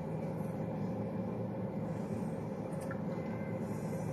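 Steady low hum inside a car cabin with the engine idling.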